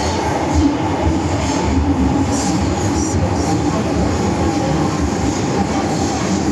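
MTR M-train (Metro Cammell electric multiple unit) running on the Island Line, heard from inside the car: a steady rumble of motors and wheels on the rails, with a faint steady tone and a couple of brief high hissing squeals from the wheels.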